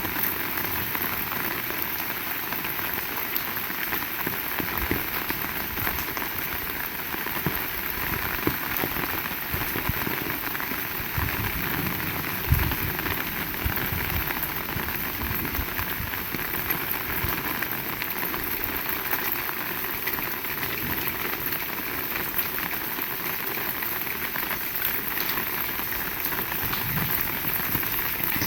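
Heavy rain falling steadily, a dense even hiss of drops, with a single dull thump about halfway through.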